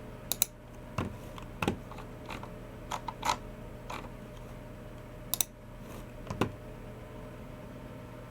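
Scattered key presses on a Logitech MX Keys Mini keyboard and clicks of a Logitech G304 mouse, about a dozen short clicks with pauses between them, some in quick pairs. A faint steady hum lies underneath.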